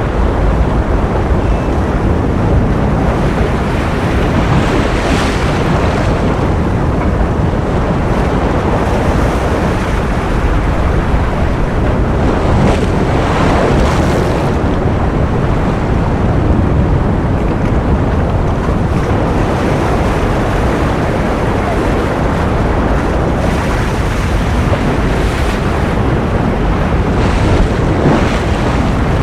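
Ocean surf as a steady, loud rush of noise, with waves swelling and brightening every several seconds.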